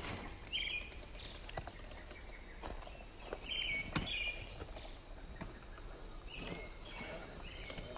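Birds chirping in short calls a few times over a steady outdoor background hiss, with scattered light clicks and knocks.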